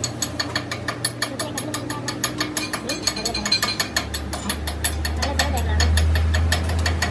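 Rapid, evenly spaced mechanical clicking, about ten clicks a second, over a low machine hum that grows louder about four seconds in.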